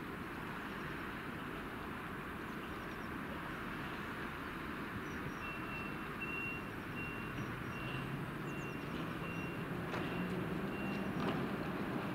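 Intercity train pulling out of the station and drawing nearer, its low running hum building and growing louder through the second half, with two clacks near the end. A short high beep repeats steadily through the second half.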